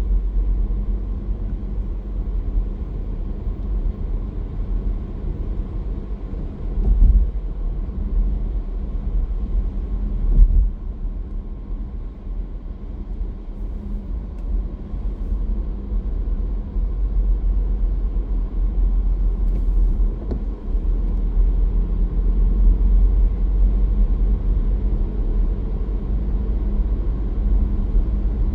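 Car driving on a road: a steady low rumble of engine and tyres, with two brief thumps, about seven and ten seconds in.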